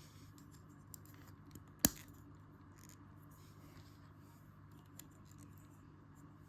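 Small plastic LEGO pieces being handled and picked out: a few faint clicks and one sharp click about two seconds in, over a steady low hum.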